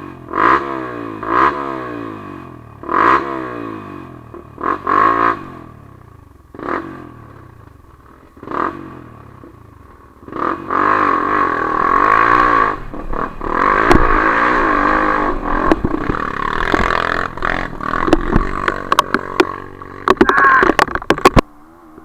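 Trail motorcycle engine revved in short throttle blips, each rising and falling in pitch. About ten seconds in it is held at high revs for around ten seconds, with clattering over it, and it cuts off suddenly near the end.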